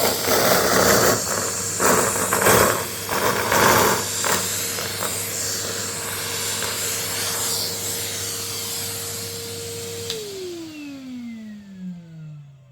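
Vacuum cleaner running and sucking up confetti, with crackling and rattling from the pieces for the first few seconds, then a steady hum. About ten seconds in it is switched off and the motor's whine falls steadily in pitch as it spins down.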